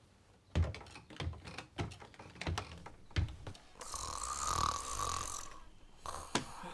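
A person snoring: a long, noisy snore about four seconds in, carrying a steady whistle-like tone, after a run of sharp irregular clicks and knocks.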